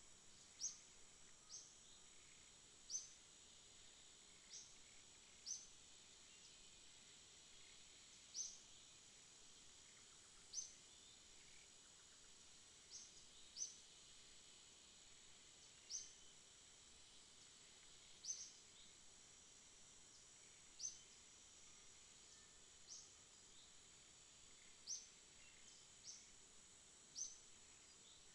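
Faint night insect chorus: a steady high buzz, with short, sharp, high chirps from a single caller repeating at uneven gaps of one to three seconds.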